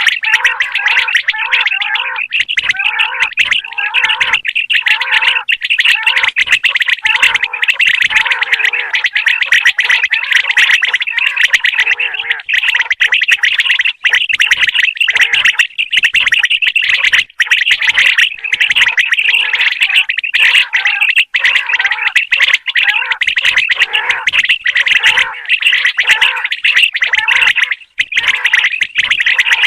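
Common quail calling without a break: a dense, rapid run of chirping, clicking notes with no pause.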